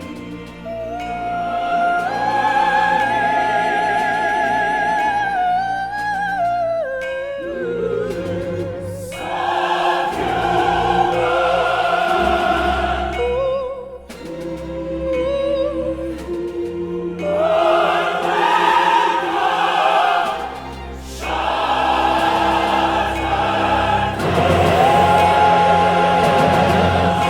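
Classical choral-orchestral music: operatic voices hold long notes with wide vibrato over orchestra and choir. The phrases break off briefly three times.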